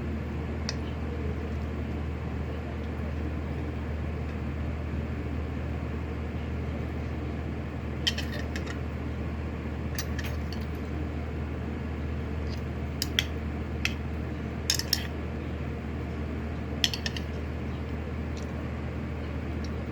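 An electric fan running with a steady hum, with a few short, light clinks of utensils against a bowl, clustered in the second half, during a meal.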